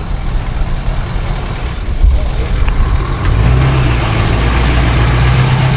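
A car's engine and exhaust running with a loud, low drone. It grows louder about halfway through and begins to rise in pitch near the end.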